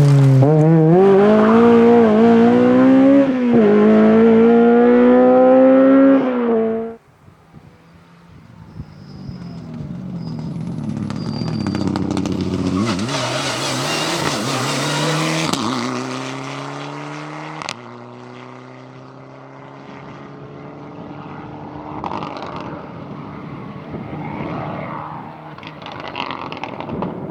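Rally car engine at full throttle close by, its pitch climbing and dropping back with each upshift, cut off suddenly about seven seconds in. Then a quieter rally car engine pulling through the gears with a slowly rising pitch, a sharp click about two-thirds of the way in, and more revving engine toward the end.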